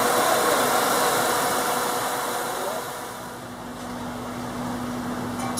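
Caprice-donor V8 idling steadily, with a broad hiss over it. It grows quieter about three seconds in, leaving a steady hum.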